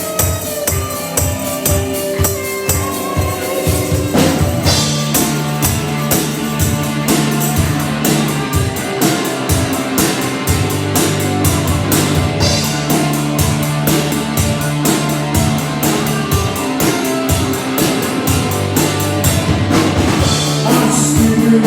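Live rock band playing an instrumental passage, the drums keeping a steady, even beat. About four seconds in, sustained bass and guitar notes come in and fill out the sound.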